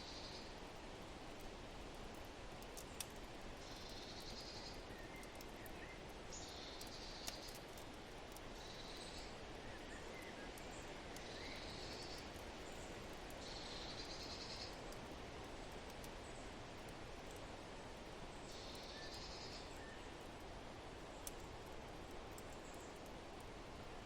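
Layered fireplace and forest ambience: a steady rush of wind with a few sharp fire crackles, and a short high chirping trill that repeats every two to three seconds alongside a few faint bird chirps.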